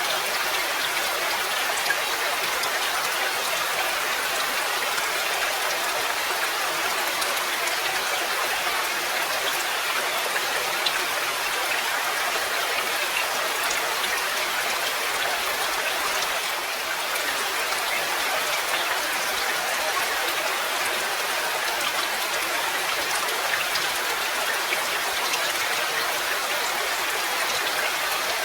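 Steady rain: an even hiss of falling rain with scattered sharper drop ticks.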